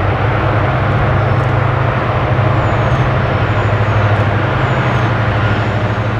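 Diesel locomotives running under power with a steady low engine drone over loud mechanical noise.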